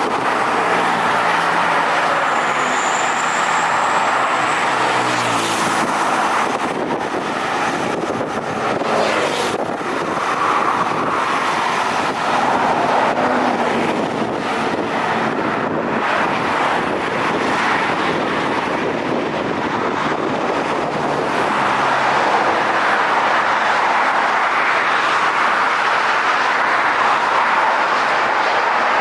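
Jet engine noise from a Scoot Boeing 787-9 Dreamliner's Rolls-Royce Trent 1000 turbofans: a steady, loud rush, with a faint high whine that falls in pitch about two seconds in.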